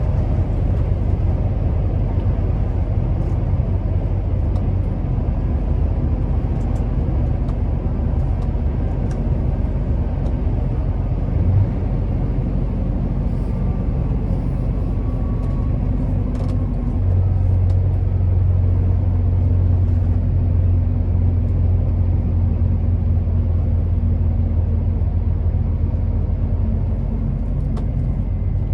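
Scania R650's 16.4-litre V8 diesel engine running steadily as the truck drives, a low even drone. About seventeen seconds in the drone grows louder and steadier, as under more load or higher revs, and there is a brief knock a few seconds before that.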